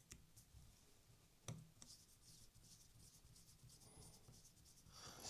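Near silence with a few faint clicks and light rubbing: small model locomotive parts and tools being handled.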